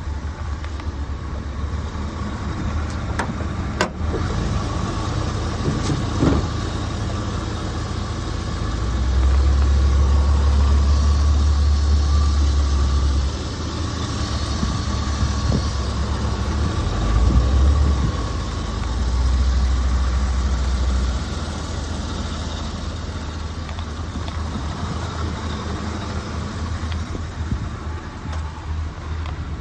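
Chevrolet Silverado 3500's 6.0-litre V8 running steadily at idle, with a few louder, deeper stretches in the middle and a sharp click about four seconds in.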